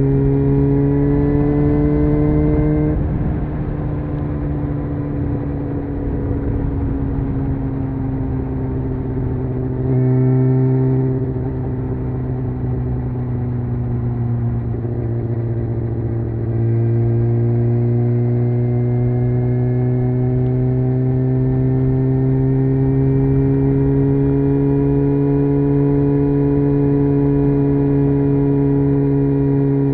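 Honda CBR600F inline-four engine running under way, its revs rising under throttle, easing off about three seconds in, picking up briefly around ten seconds, then climbing slowly and steadily through the second half, with wind rush underneath.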